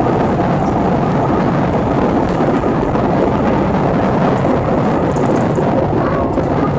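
Loud, steady rushing roar of an airliner's jet engines and airflow heard from inside the passenger cabin.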